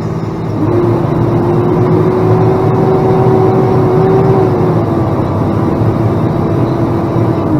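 Plow truck's engine running under load, heard from inside the cab, with a steady whine that comes in about half a second in and climbs slightly in pitch before holding.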